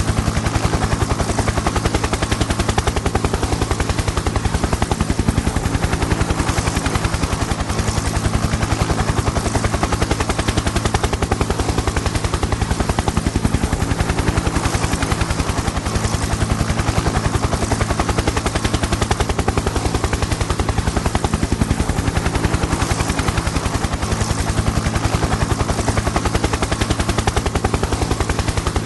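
Helicopter in flight: the rapid, even chop of the rotor blades over a steady engine and turbine drone.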